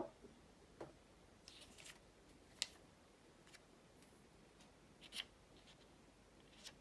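Origami paper being handled and folded: faint, scattered rustles and light taps, about half a dozen small sounds spread across a near-silent background.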